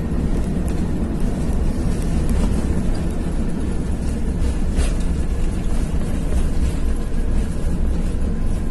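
Airbus A380 cabin noise during landing: a steady, loud low rumble of engines, airflow and running gear with no break.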